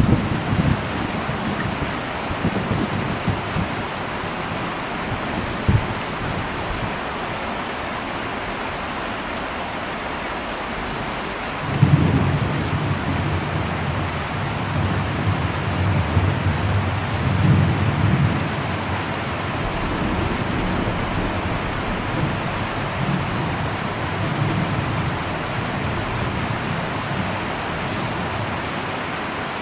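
Heavy rain falling steadily on an old metal roof, with thunder. A rumble dies away in the first couple of seconds, and about twelve seconds in a new peal starts suddenly and rolls on for several seconds before trailing off.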